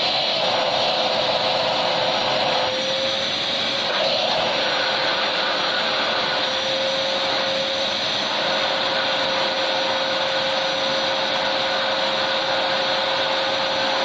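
Electric vacuum cleaner running steadily, a continuous rushing hiss with a constant motor whine.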